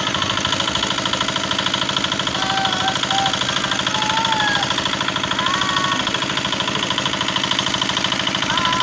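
A small engine running steadily at idle with a fast, even knocking beat.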